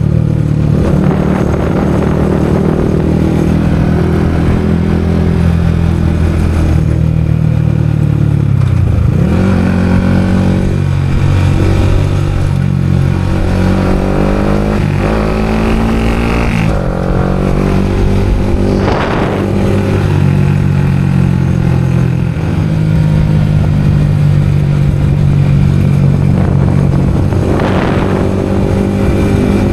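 Motorcycle engine running at road speed, heard through a helmet-mounted camera, its pitch falling and climbing again through gear changes about nine seconds in and again around fifteen seconds in. Two brief whooshes rise over it later on.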